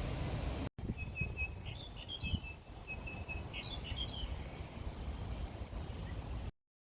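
A songbird singing two phrases, each a run of short even notes followed by quick higher chirps, over a steady low outdoor rumble. The sound drops out briefly under a second in and cuts off suddenly near the end.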